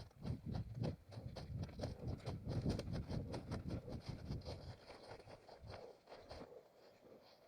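Footsteps of a runner crossing rough forest ground, a quick series of thuds with rustling of leaves and undergrowth, quieter in the last couple of seconds.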